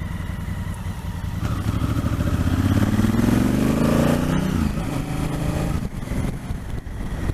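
Motorcycle engine under way, its pitch rising for a couple of seconds as it pulls up through the revs, then falling away as the rider eases off.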